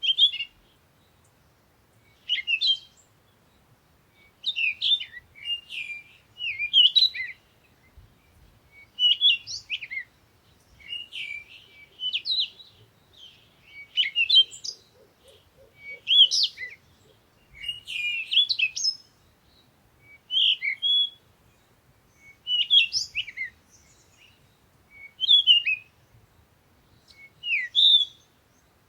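A songbird singing short, varied chirping phrases, one every second or two, with brief pauses between them.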